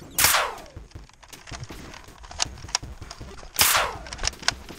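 Two loud shots about three and a half seconds apart, each a sharp crack with a falling tail, fired in a foam-dart blaster fight. Fainter clicks come in between.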